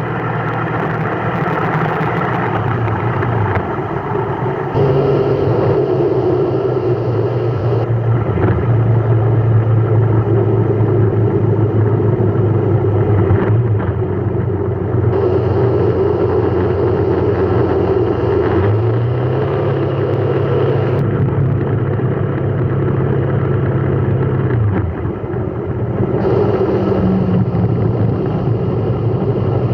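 A vehicle engine running continuously, its pitch stepping up and down as the vehicle speeds up and eases off. A rise a little past the middle is held for several seconds before it falls back.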